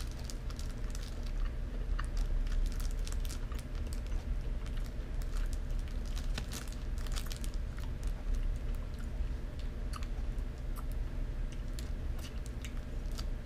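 A person chewing a piece of Pulparindo, a soft chili-tamarind candy, with many small irregular mouth clicks, while its plastic wrapper crinkles lightly in the hands.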